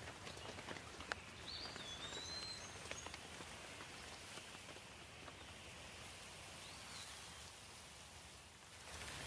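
Steady rain falling with scattered individual drops pattering, while a bird gives a short whistled call about a second and a half in and again more faintly near seven seconds.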